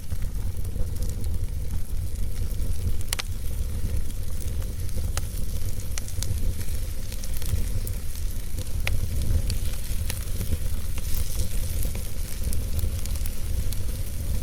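Wood fire burning in a fireplace: a steady low rumble and hiss, dotted with small crackles and a few sharper pops.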